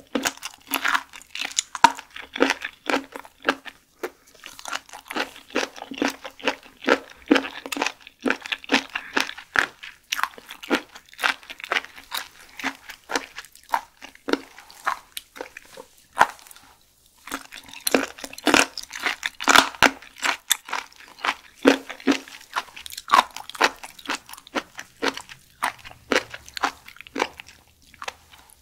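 Close-up crunchy chewing of raw sea snail (candlestick whelk) meat: dense, wet, crackly crunches with one short pause a little past the middle.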